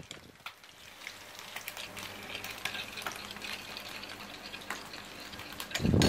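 Fish frying in oil in a wok, a steady sizzle, with light clinks of a metal spoon stirring dipping sauce in a small bowl.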